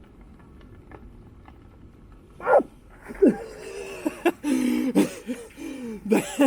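A man's strained vocal grunts and groans of effort, several in a row with sliding pitch, starting a couple of seconds in, during an attempt at a physical feat that fails.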